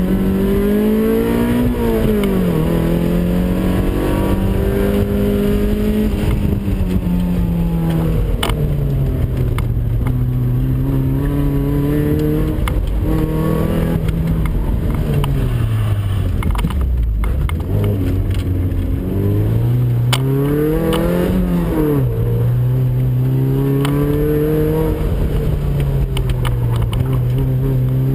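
A 1987 Toyota MR2's twin-cam four-cylinder engine, heard from inside the cabin, driven hard. The revs climb and then drop sharply at a gear change about two seconds in. They hold, ease off and sag around the middle, then climb again to a second sharp drop about three quarters of the way through.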